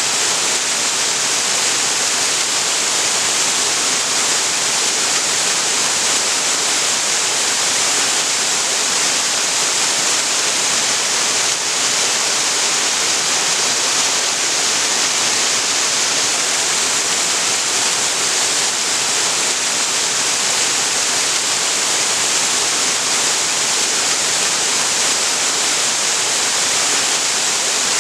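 Waterfall pouring steadily, a constant rushing hiss of falling water.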